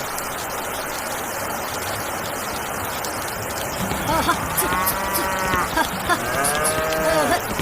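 Farm animals calling: two or three long calls that rise and fall in pitch in the second half, over a steady background hiss.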